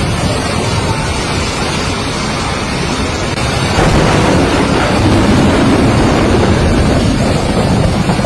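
Strong storm wind buffeting the microphone: a loud rushing noise with a deep rumble, growing louder about four seconds in.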